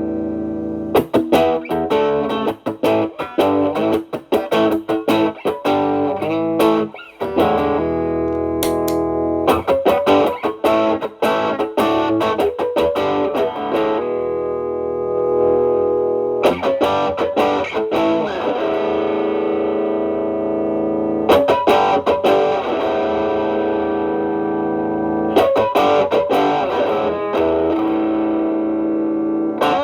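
Stratocaster played through an Xotic BB Plus preamp with channel A stacked into channel B as a gain boost, into a Marshall Valvestate amp: distorted lead guitar. Quick picked phrases alternate with long sustained notes, a few of them bent.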